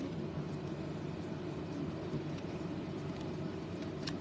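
Steady low background hum and hiss, with a faint click near the end.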